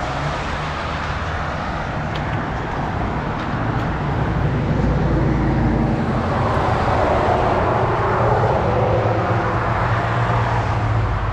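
Motor vehicle running close by with traffic noise, a steady low rumble and hum that swells louder about four seconds in.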